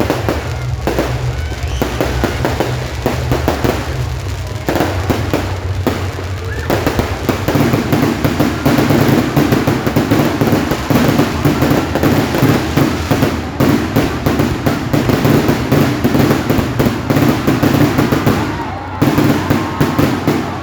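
A fireworks display going off in a dense, continuous barrage of crackles and bangs, thickening about a third of the way in, with music playing underneath.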